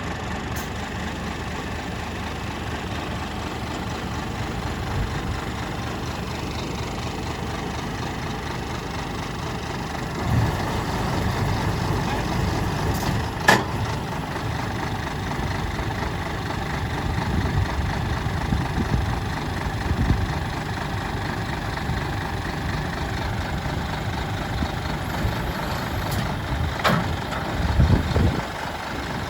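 Scania R480 truck's diesel engine idling steadily, with a sharp click about halfway through and another near the end.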